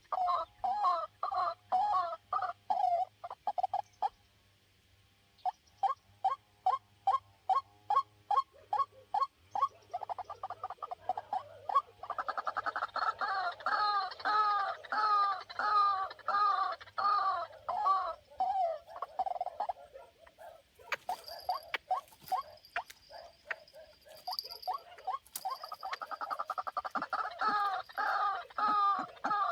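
White-breasted waterhen calling: loud, repeated croaking 'ruak' notes about two a second, broken by a pause about four seconds in, then running on faster and more crowded together. Some sharp knocks and rustling come in about two-thirds of the way through.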